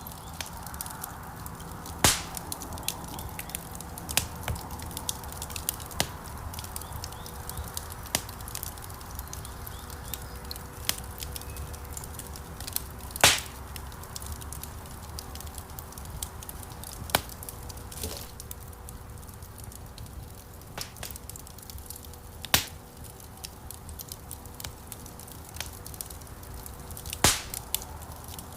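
Wood fire crackling in a stone fireplace: a steady stream of small snaps and ticks over the low rumble of the flames, with a few louder pops now and then.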